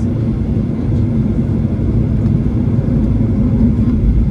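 Boeing 737-800 cabin noise on the ground just after landing: a steady, loud rumble of the engines and rolling gear as the aircraft slows on the runway.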